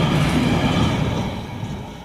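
Freight train passing, a steady rumble of wheels on rail that fades away over the last second.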